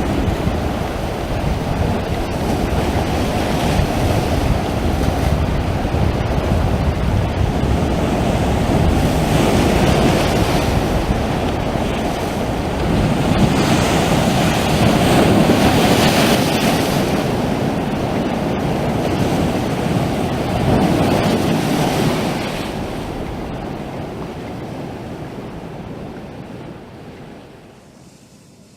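Sea waves surging and washing onto the shore, coming in swells every few seconds, loudest in the middle and fading away near the end.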